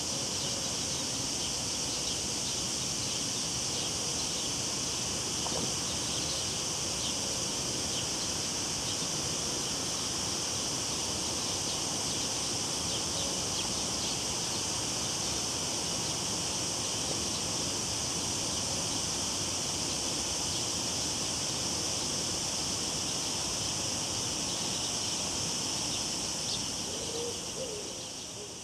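Cicadas droning steadily in a high, continuous buzz over the low rush of river water, with a few faint, brief low calls. The whole sound fades out near the end.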